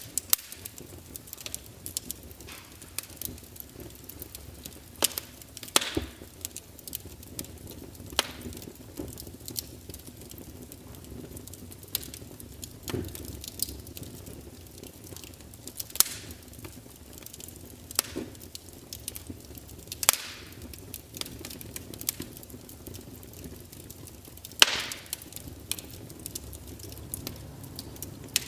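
Wood fire crackling: irregular sharp pops and snaps over a low steady hiss, with a few louder pops, the biggest near the end.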